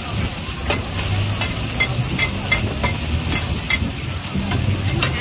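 Thai fried oyster omelettes sizzling in hot oil on a wide flat pan, while metal spatulas scrape and clink against the pan about twice a second as the pancakes are turned.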